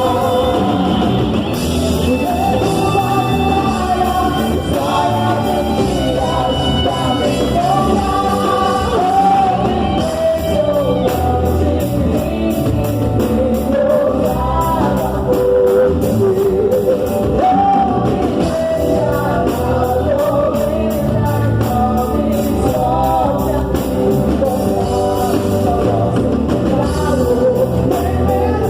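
A church worship band playing a praise song with an amplified singer, in a large hall.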